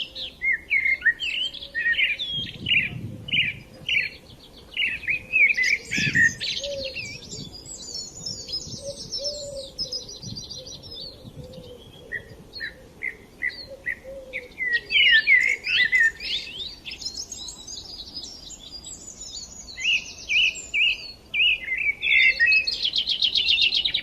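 Several small songbirds chirping and singing at once: quick repeated chirps and fast trills that overlap and carry on without a break.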